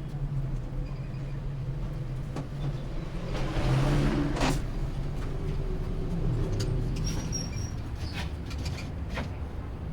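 A vehicle engine running steadily, with scattered sharp clicks and knocks and a brief rushing noise about three and a half seconds in.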